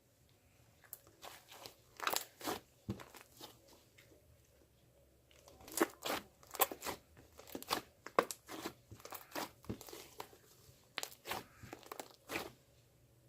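Close-up crunching and crinkling: quick runs of short, sharp crackles in three bursts separated by brief pauses.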